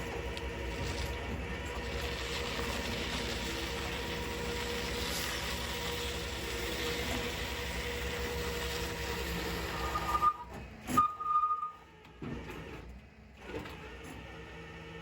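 Tow truck engine running steadily, then two short high beeps about ten seconds in, after which it goes quieter.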